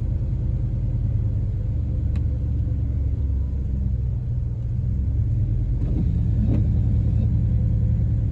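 Pickup truck driving slowly, heard from inside the cab: a steady low engine and road rumble that grows a little louder about five seconds in.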